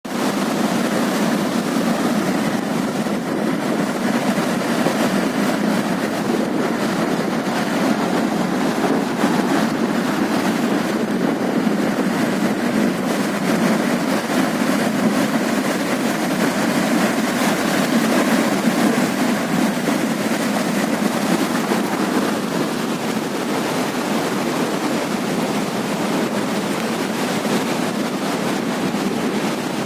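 Floodwater of the swollen Teesta river rushing past in a loud, steady, unbroken noise.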